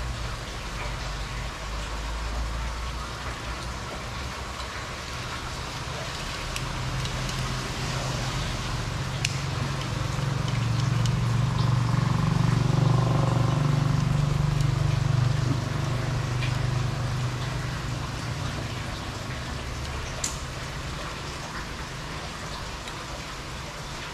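Steady rain falling, with a motor vehicle passing by: its engine grows louder to a peak about halfway through, then fades away.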